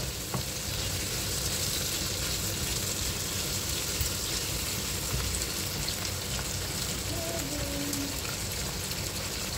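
Diced pork, onions and bell peppers sizzling steadily as they fry in a non-stick frying pan, stirred with a wooden spoon.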